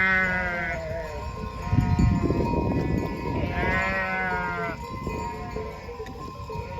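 Sheep bleating: two long, high bleats, one at the start and one about three and a half seconds in. A rough rumbling noise comes between them, about two seconds in.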